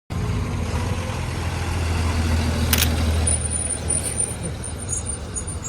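A car engine running with a steady low rumble that swells toward the middle, with one sharp click about three seconds in and faint high squeaks near the end.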